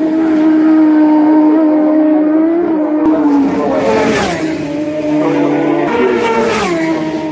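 Superbike racing motorcycles passing at speed, one after another. Two go by close, about four seconds in and again near the end, each engine note dropping in pitch as it passes.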